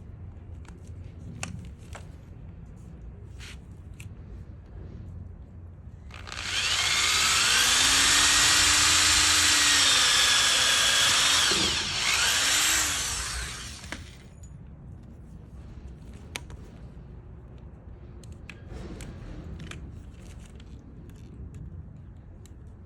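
Power drill boring a hole into wood. The motor runs steadily for about six seconds, pitch wavering a little under load. It dips briefly and runs again for about two seconds before stopping. Faint clicks and handling sounds come before and after.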